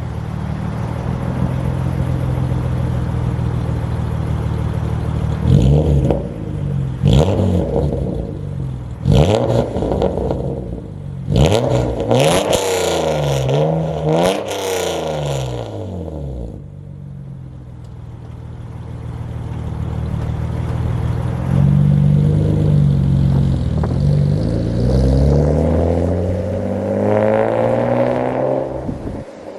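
BMW E36 M3's S50 straight-six running through a near-straight-piped exhaust (cat and resonator deleted, gutted stock muffler): idling, then revved in a string of quick blips with the pitch rising and falling, then held up at higher revs for several seconds before cutting off near the end.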